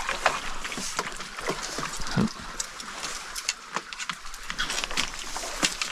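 Shallow stream water splashing and gurgling, broken by many short sharp splashes, as people wade and work nets in the water.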